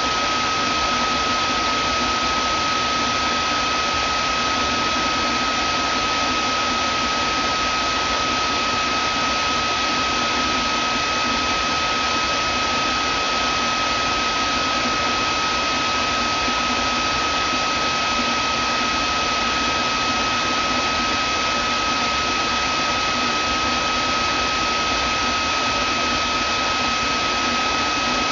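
Vacuum cleaner running steadily: an even rush of air with a constant high motor whine.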